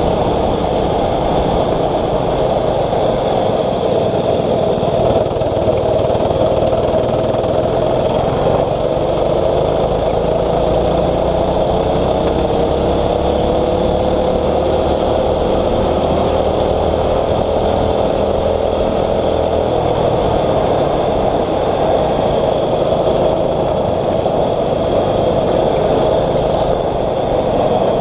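Small 6.5 HP kart engine running hard at race speed, over a steady rushing noise; its pitch climbs slowly for about ten seconds midway, as when accelerating down a straight.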